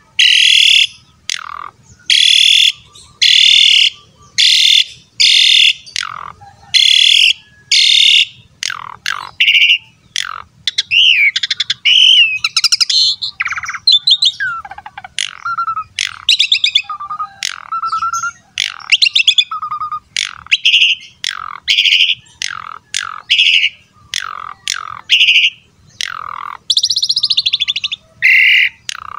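Asian pied myna (jalak suren) singing loudly. It gives a run of harsh calls about one a second, then a varied stretch of whistles and gliding notes about ten seconds in, then returns to repeated harsh calls.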